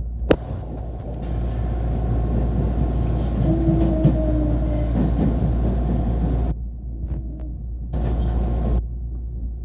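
Train running, a steady low rumble with a short whining tone about halfway through. The sound drops away abruptly about two-thirds of the way in, comes back briefly, then drops again.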